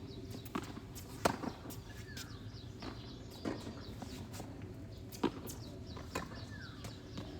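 Tennis rally: sharp pops of racket strikes and ball bounces every second or two, the loudest about a second in and about five seconds in, with two short falling squeaks.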